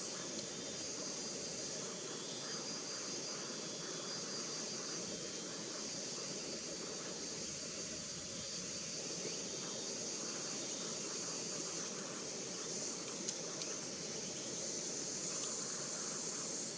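Steady forest ambience: a continuous high-pitched insect drone over a low, even rushing background.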